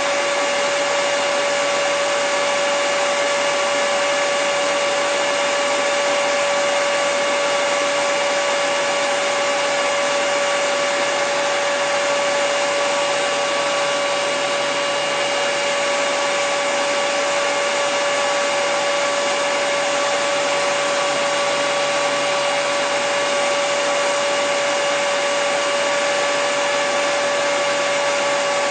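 Hair dryer running continuously at a constant setting: an even rush of air with a steady motor whine.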